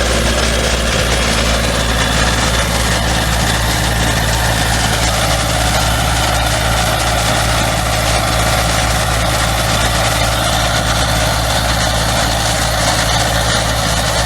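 An engine running steadily at idle, a constant low hum with noise over it, which cuts off abruptly at the end.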